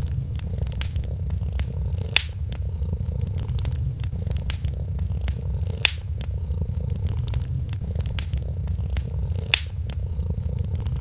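A cat purring steadily and low, over a wood fire crackling with frequent small clicks and three louder pops.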